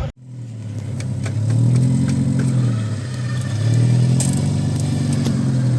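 An off-road vehicle's engine revving in two long pulls, rising in pitch about a second and a half in and again near the middle, easing briefly between them.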